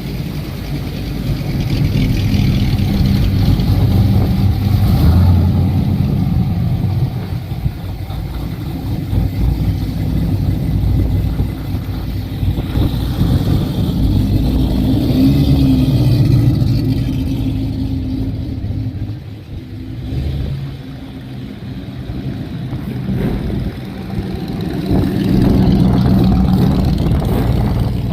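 Car engines running past one after another, each swelling louder and then fading, with a dip between them. A low, steady engine note runs throughout, with some revving.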